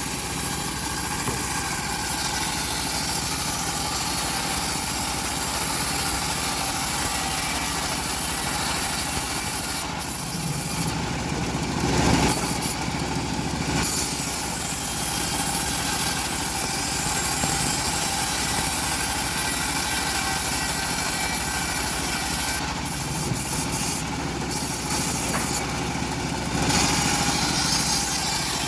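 Homemade engine-driven bandsaw mill running steadily, its blade sawing through an old teak log with a hum and a wide hiss. The high hiss dips briefly several times.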